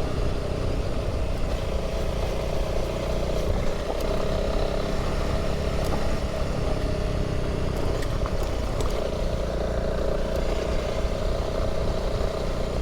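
Honda CRF300 Rally's single-cylinder engine running steadily under way, with a few light ticks.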